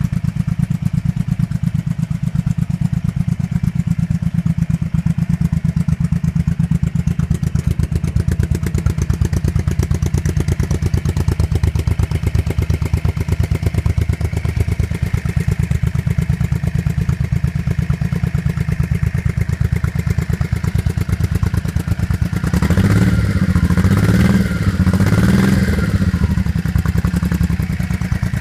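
Honda Shadow Spirit's V-twin engine idling with a steady, even pulse, revved up briefly twice near the end.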